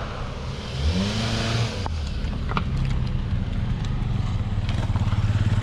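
Car engine pulling away, its pitch rising about a second in and then running steadily, with road noise.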